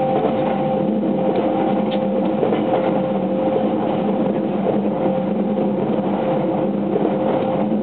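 Running sound inside a JR West 683 series 2000-subseries limited-express electric train cruising at speed: a steady rumble of wheels on rail with a steady hum.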